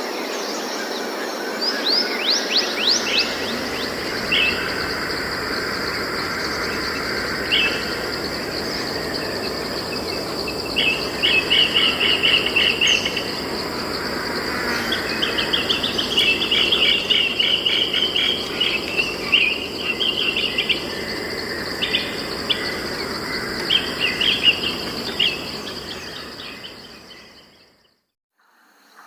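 Forest ambience: birds chirping in quick trills, with a run of rapid falling whistles at the start, over a steady high-pitched insect drone and a constant hiss. It fades out near the end.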